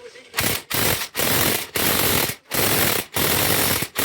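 Cordless impact wrench hammering in repeated short trigger pulls, about seven bursts of half a second or so with brief pauses between, working a nut.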